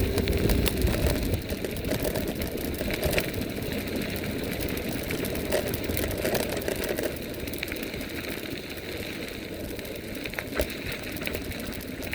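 Riding noise from an electric mountain bike: the tyres roll with a steady rumble while the bike rattles and clicks over a rough surface. A thin whine fades out about a second in.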